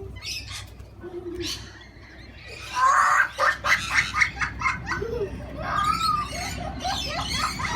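A flock of parrots calling: a few scattered short calls, then a loud, dense run of quick, overlapping squawks and chirps starting a little under 3 seconds in.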